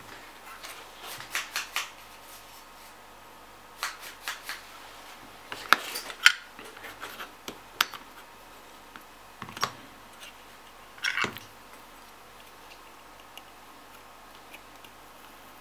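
Irregular small clicks, taps and short scrapes of hands and tools working on a graphics card's cooling fan as it is taken apart, in a few separate bursts.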